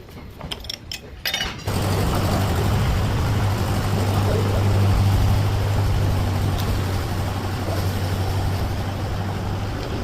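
A few light metal tool clinks, then under two seconds in a tractor's diesel engine comes in abruptly and runs at a steady idle with a low, even hum.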